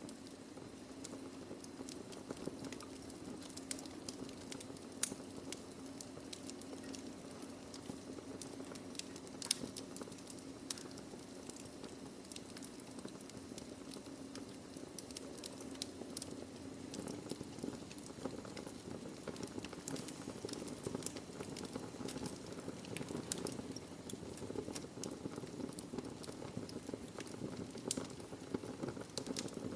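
Burning logs in a fireplace crackling, with frequent sharp pops over a steady low roar; one louder pop about five seconds in.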